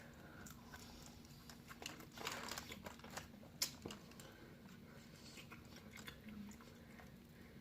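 Faint close-up eating sounds: chewing and biting into chicken wings, with scattered small mouth clicks and a sharper click about three and a half seconds in.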